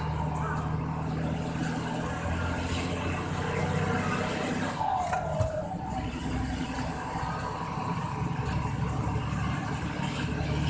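Truck engine running steadily while driving, with a short falling tone about halfway through.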